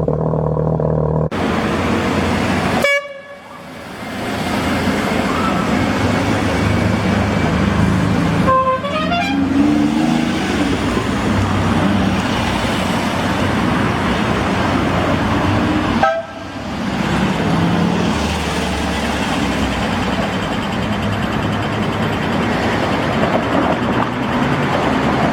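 Classic cars driving by with their engines running, and car horns tooting.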